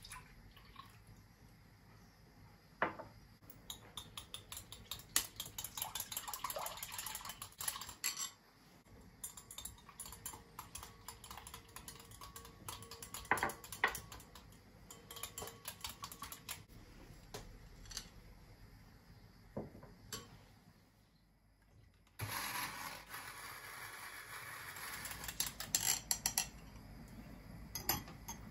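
Kitchen handling sounds: irregular clicks and clinks of dishes and utensils being handled, with a steady hiss joining them in the last few seconds.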